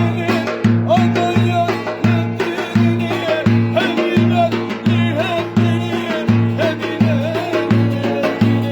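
Turkish folk dance tune (oyun havası) played by a band. A steady, bouncing bass pattern repeats under an ornamented lead melody that bends and trills.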